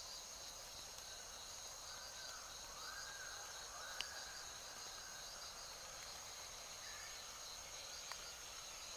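Forest ambience: insects trill steadily and high, with a few faint bird calls. A sharp click sounds about four seconds in and a smaller one near the end.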